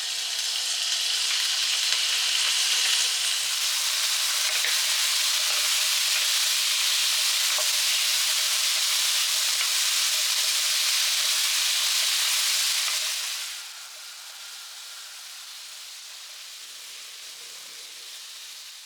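Food sizzling in a frying pan with light crackling. The sizzle is loud for about thirteen seconds, then drops suddenly to a quieter, steady sizzle.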